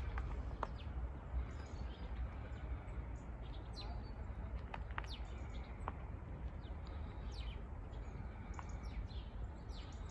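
A few short, scattered bird chirps over a steady low rumble.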